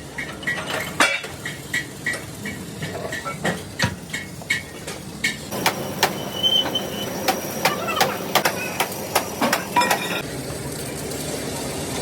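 Repeated hammer blows on mild steel sheet metal, sharp ringing strikes coming about two a second.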